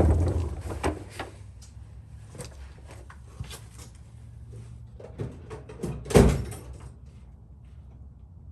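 Workshop clatter: light clicks and knocks of hand tools being handled, with one louder thud about six seconds in.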